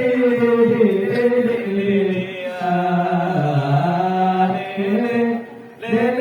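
A single man's voice chanting an Islamic recitation in long, sliding, melismatic notes, heard over a microphone. A short breath pause comes about five and a half seconds in, then the chant picks up again.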